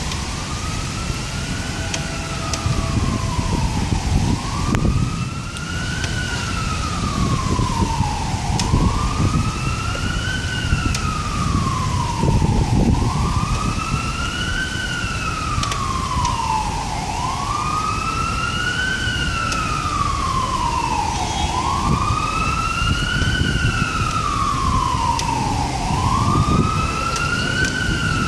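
Emergency vehicle siren wailing in slow cycles, about every four seconds, each a quick rise in pitch and a long slow fall. It sounds over a steady low rush of storm rain and wind.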